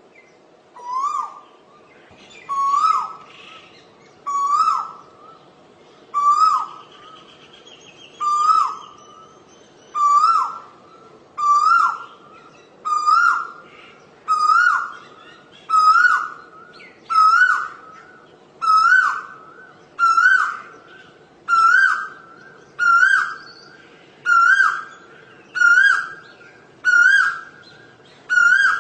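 Asian koel calling its loud, repeated two-note "ko-el" in a long series, each note swooping up then down. The notes come faster and climb higher in pitch as the series goes on.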